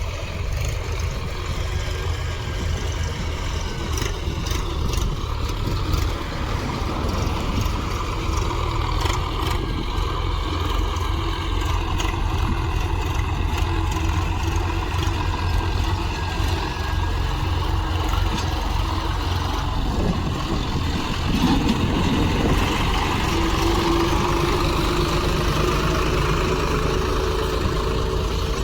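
Tractor diesel engine running steadily, its note rising a little about twenty seconds in.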